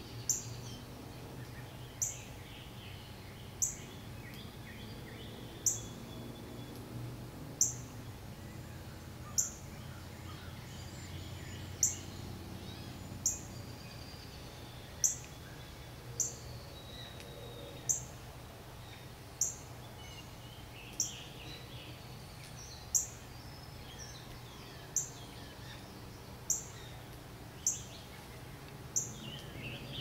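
A small bird repeating a single short, high, sharp note about every one and a half to two seconds, with fainter chirping from other birds and a low steady hum beneath.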